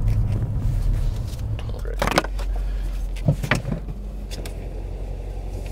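Mercedes-AMG E63S wagon's twin-turbo V8 idling low inside the cabin as the car settles to a stop, with a sharp click about two seconds in and a few lighter clicks and knocks a second later as seatbelts are unbuckled.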